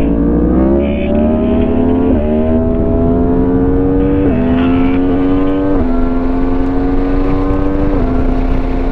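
Motorcycle engine accelerating hard through the gears: its pitch climbs in each gear and drops sharply at four upshifts, about two, four, six and eight seconds in. Wind rush on the rider's camera mic lies underneath.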